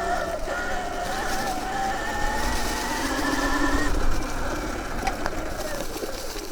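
Sur Ron Light Bee electric motorcycle's drive whine, its pitch wavering and rising gradually with throttle and speed, then fading out about four seconds in, over the low rumble of riding through brush.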